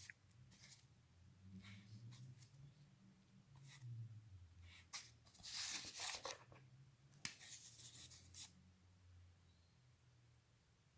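Faint, scattered scratching and rubbing strokes as the small tyres of a diecast toy car are worked with a broken drill-bit shank, with one sharp tick about seven seconds in.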